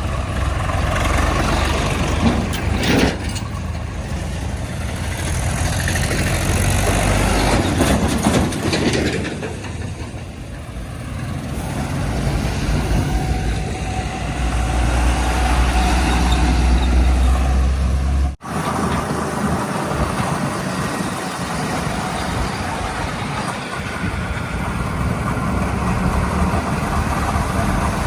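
Heavy diesel engines of earthmoving machinery and trucks running, with a steady low rumble. The sound breaks off for an instant about 18 seconds in and then carries on with a changed engine sound.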